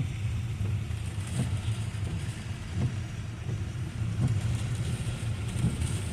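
Car cabin noise while driving in the rain: a steady low road rumble, with a faint short sound repeating about every second and a half.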